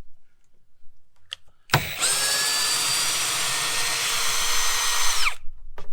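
FERREX Pro cordless combi drill starting suddenly almost two seconds in and running at a steady speed under load with a high motor whine for about three and a half seconds, driving a 13mm bit, then winding down. A short click follows near the end.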